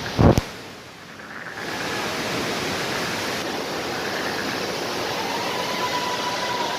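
Steady rushing of a large waterfall in full monsoon flow, swelling about a second and a half in and then holding even. A brief heavy thump comes right at the start.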